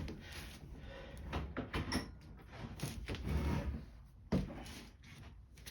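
Scattered clicks and scrapes of hand tools working a spring clamp off a lawn mower's fuel hose at the carburetor, with one sharper click about four seconds in.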